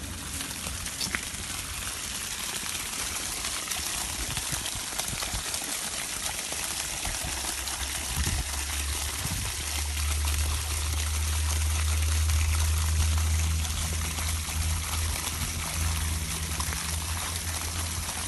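Water trickling and pouring steadily, with a low rumble from about ten seconds in to about fourteen.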